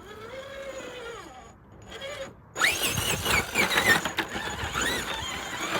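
RC rock crawler's electric motor and geared drivetrain whining as the throttle is worked, the pitch rising and falling. It starts faint, then from about halfway through grows louder with fast swooping changes in pitch as more power is given.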